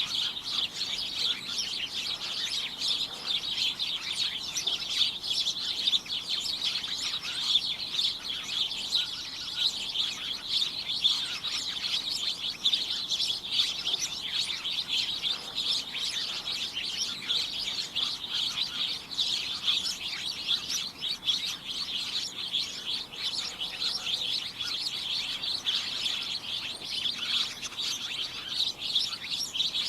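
A flock of birds chirping and tweeting continuously, many overlapping quick high chirps in a dense chorus.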